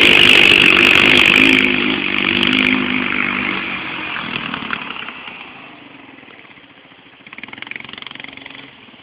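Motorcycle engine running loudly, then fading away over about five seconds as the bike moves off. A fainter engine sound swells briefly near the end.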